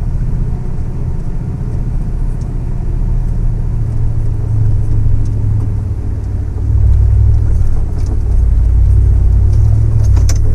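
Low, steady rumble of an off-road truck engine, louder from about seven seconds in.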